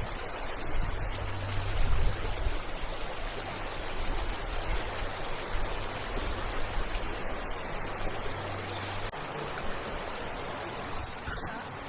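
Running river water, a steady even rush. A low rumble underneath stops abruptly about nine seconds in.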